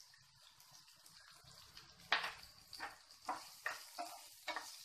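Chopped onions and sprouted peas sizzling in hot oil in a frying pan. From about two seconds in, a wooden spatula stirs them in about six quick scraping strokes.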